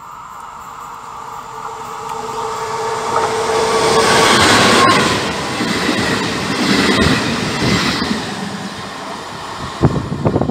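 Diesel-hauled regional passenger train, a D.445 locomotive with MDVC coaches, approaching and passing close. It grows steadily louder to its loudest about four to five seconds in, then fades. A few sharp knocks come near the end.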